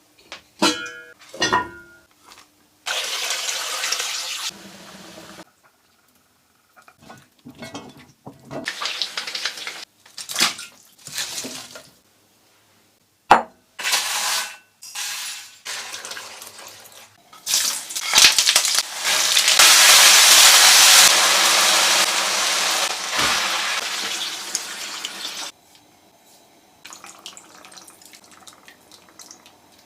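Kitchen tap running in several stretches, the longest of about eight seconds, with clinks and knocks of dishes and utensils in between.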